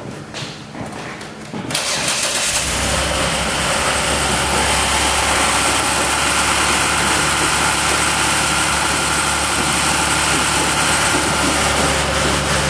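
Dodge Nitro's V6 engine starting about two seconds in, then idling steadily on all cylinders. This is its first start after a head gasket repair with resurfaced cylinder heads.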